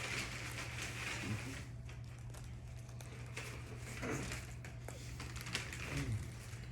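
Someone eating a Philly cheesesteak: small chewing, mouth and handling clicks and rustles over a steady low hum, with a few brief murmurs.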